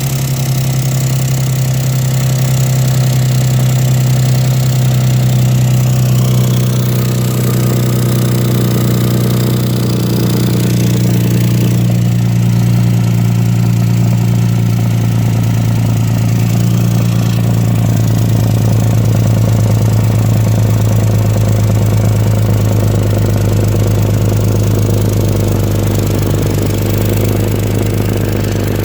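Vehicle engine idling steadily with an exhaust leak, its even hum settling slightly lower in pitch as it runs.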